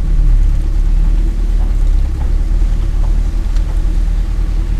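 Mitsubishi Canter light truck driving on a rough unpaved track, its diesel engine a steady low rumble with a few faint light knocks.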